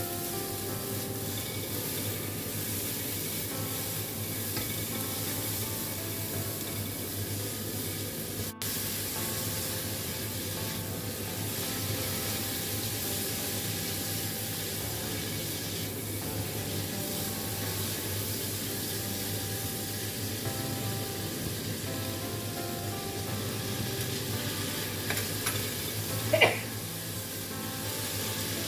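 Sliced green and red chillies with garlic sizzling in hot oil in a wok, stirred with a plastic spatula: a steady frying hiss. A single short, ringing knock near the end.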